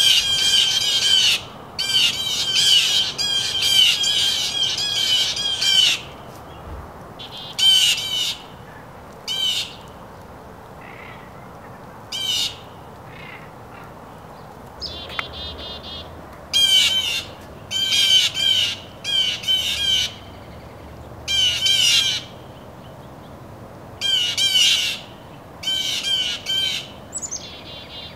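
A bird calling loudly in about fifteen bouts of rapid chattering notes, each bout lasting half a second to a second and a half, with short pauses between them.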